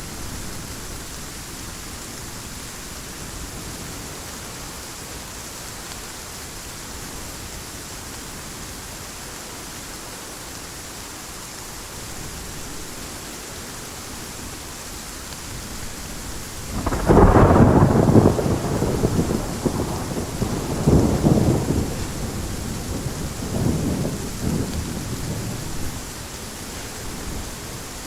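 Steady heavy rain, with a loud crack and rumble of thunder a little past the middle that rolls on in two further swells before fading.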